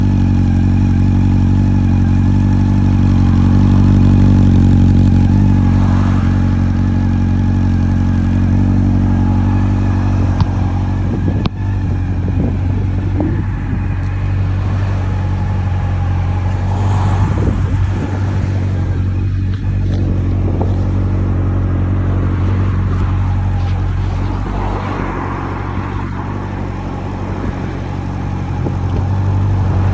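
Honda CB400 Super Four Revo (NC42) inline-four engine running through a Yoshimura aftermarket muffler, holding a steady, even pitch. A few short clicks and knocks come in between about 11 and 18 seconds in.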